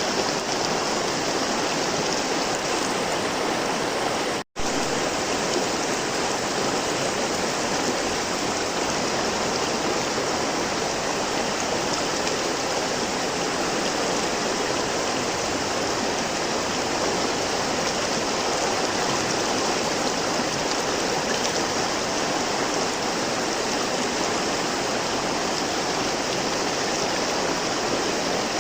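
River water flowing, a steady, even rushing. It cuts out completely for an instant about four and a half seconds in.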